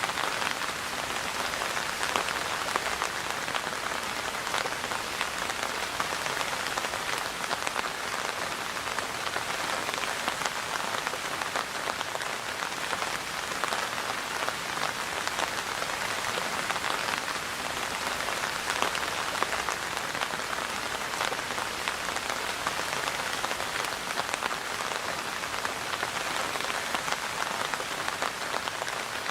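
Steady rainfall: a dense, even patter of countless raindrops hitting a surface.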